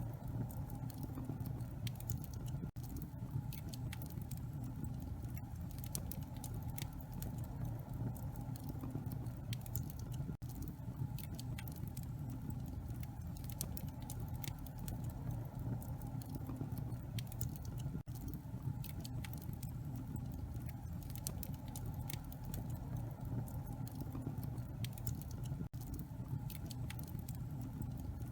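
Wood fire burning in a fireplace, with a steady low rumble and irregular sharp crackles and pops from the burning logs. Four very brief dropouts break the sound at even spacing.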